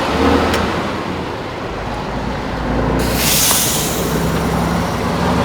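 Heavy off-road trial truck's engine running steadily under load, with a short hiss of air about three seconds in.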